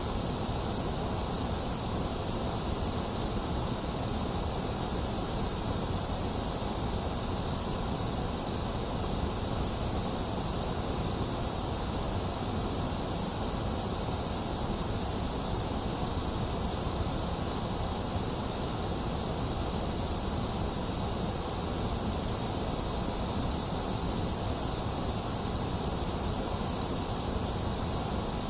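Box fan running steadily, mixed with the hiss of steady rain, as one even, unchanging noise with no thunder.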